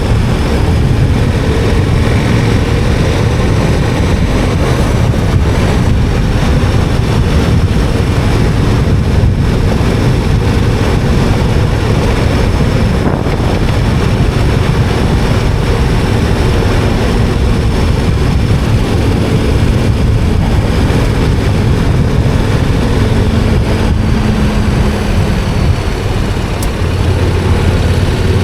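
KTM 1290 Super Adventure R's V-twin engine running steadily under way on a gravel road, with tyre noise and wind on the microphone.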